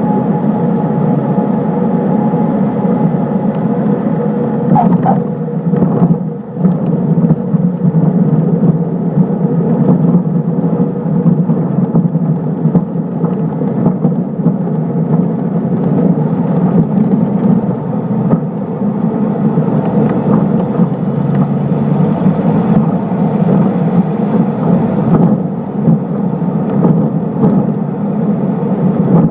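Cessna 152's four-cylinder Lycoming O-235 engine and propeller droning steadily, heard from inside the cockpit together with airflow noise.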